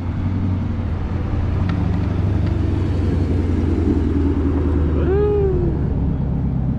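Car engines rumbling low and steady as vehicles idle and roll through a crowded car meet lot. About five seconds in, a short shout rises and then falls in pitch.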